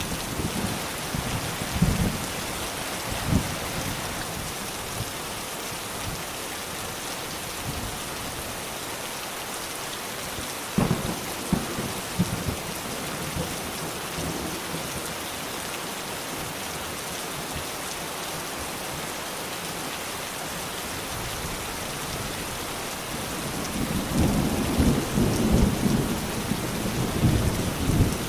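Steady rain falling. There are a few short low thumps, and a low rumble of thunder swells near the end.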